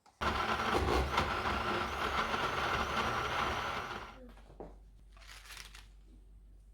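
Small electric kitchen appliance motor, blender-like, runs for about four seconds, starting and stopping abruptly, with a steady whine over a coarse grinding noise.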